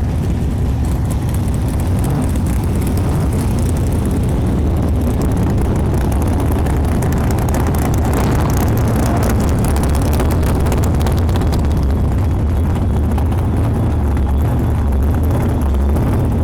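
A motor vehicle's engine running steadily, with a deep, even rumble.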